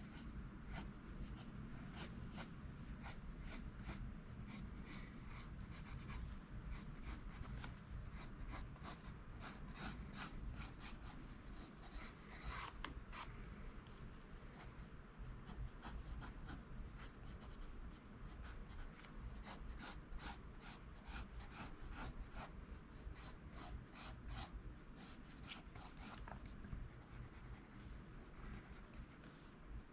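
HB graphite pencil drawing on paper: a steady run of short, faint, scratchy strokes.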